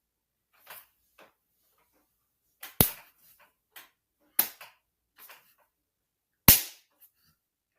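A scattering of sharp clicks or taps with silence between them. Three loud ones come about three, four and a half and six and a half seconds in, with fainter ones in between.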